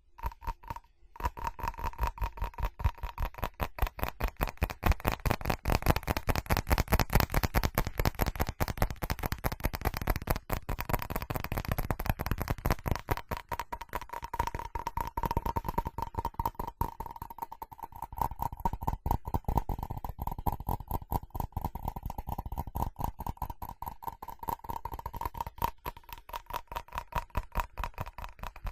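Fast, continuous tapping on a ceramic object, many taps a second, starting about a second in. A steady ringing note from the ceramic sounds under the taps.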